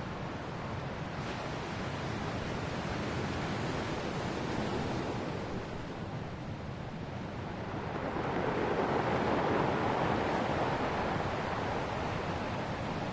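Ocean waves washing onto a shore, a steady wash of surf that swells twice, most strongly with a larger wave about two-thirds of the way through.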